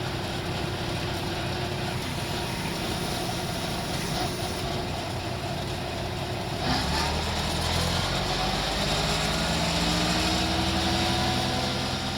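John Deere 6320 tractor engine running steadily; about halfway through it gets louder and a tone slowly rises in pitch.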